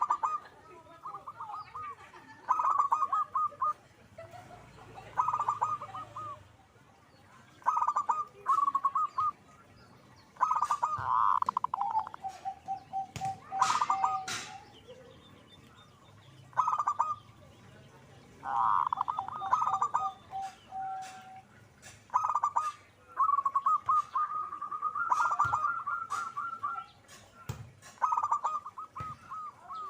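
Zebra dove (perkutut) calling over and over: short bursts of rapid staccato cooing notes every second or two, some phrases trailing into a lower-pitched trill.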